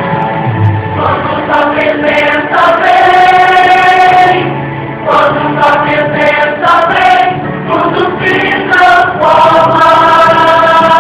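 Choral singing in a song with a gospel feel: several voices hold long sung notes over a backing.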